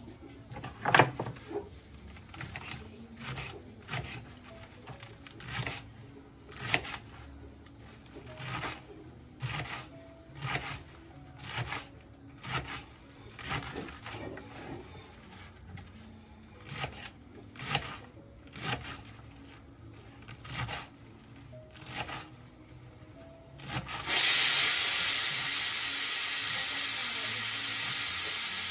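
Soft knocks in the kitchen, about one a second. Then, about 24 seconds in, a loud steady hiss of escaping steam starts suddenly and runs for nearly five seconds before cutting off sharply.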